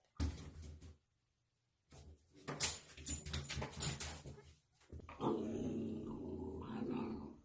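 A dog vocalizing in growling, whining bouts: a short one at the start and a longer one over the last two seconds, with a run of clicks and knocks in between.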